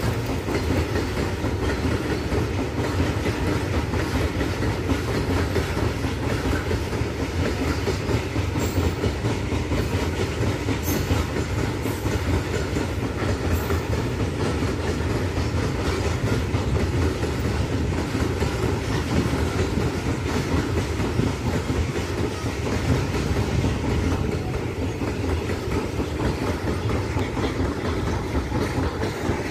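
A long Indian Railways freight train of steel hopper wagons rolling past, its wheels running on the rails in a steady rumble that stays at the same level throughout.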